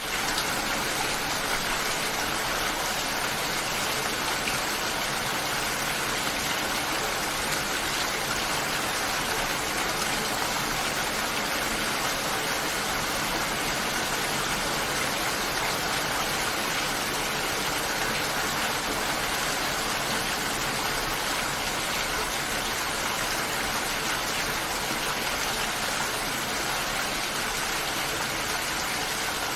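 Steady heavy rain, a dense, even hiss with no breaks, coming in suddenly after a short moment of silence.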